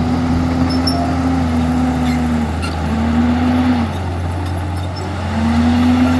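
Komatsu D51EX bulldozer's diesel engine running under load. Its pitch sags about two seconds in, comes back briefly, sags again for about a second and a half, then climbs back up near the end.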